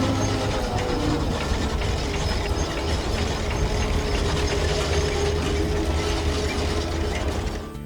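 Steady machine noise: a low motor rumble with a fine mechanical clatter and faint held tones, fading out near the end.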